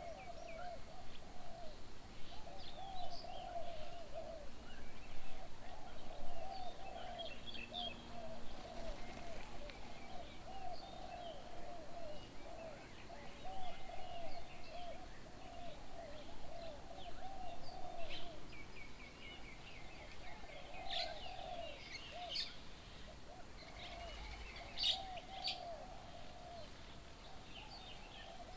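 Wild birds calling: a low, quick series of hooting notes repeats over and over, with scattered higher chirps from other birds.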